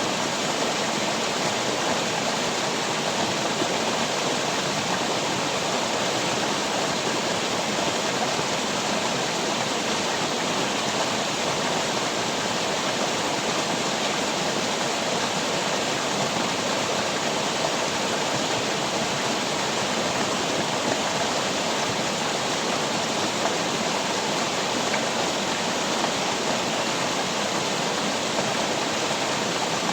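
Steady, unbroken rushing of water, with no change throughout.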